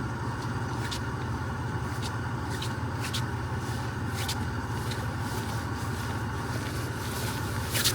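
A vehicle engine idling, a steady low hum, with a few faint clicks.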